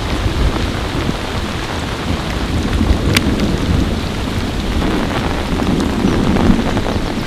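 Heavy rain falling with thunder rumbling low underneath, the rumble swelling about two-thirds of the way through. Sharp ticks of single drops hitting close by stand out now and then, one louder about three seconds in.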